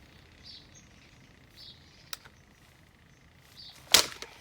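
A sharp click about two seconds in and a loud knock near the end, against faint short high chirps about once a second.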